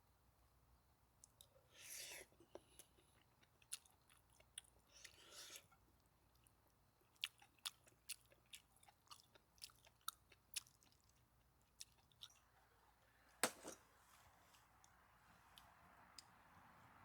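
Faint, irregular small clicks and crackles, with two short rustling hisses near the start and one sharper crack about thirteen seconds in.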